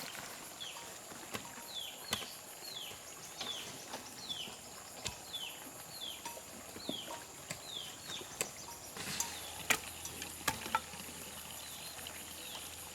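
A bird calling over and over with short, high, falling notes, about two a second, stopping about eight seconds in. Under it runs a steady high-pitched whine, with a few sharp clicks scattered through.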